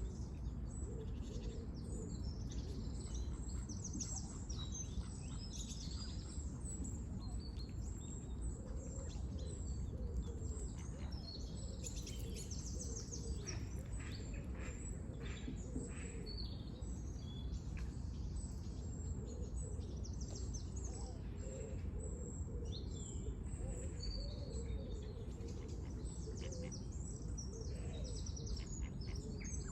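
Many small birds chirping and twittering over one another, busiest in the middle, over a steady low background rumble.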